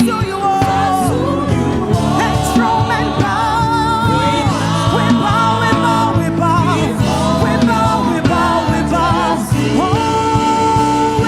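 Live gospel praise and worship music: a lead singer sings with vibrato over a full church band, with backing vocals.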